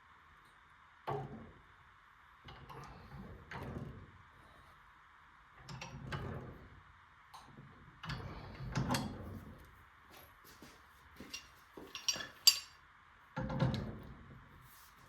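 Tools and metal parts being handled: a string of irregular knocks, clunks and clinks, with two sharp metallic clicks about twelve seconds in, over a faint steady hiss.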